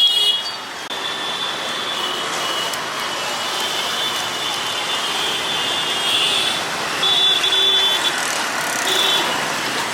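Busy city road traffic, with engines and tyres running steadily and high horn tones sounding repeatedly, loudest at the very start and again about seven to nine seconds in.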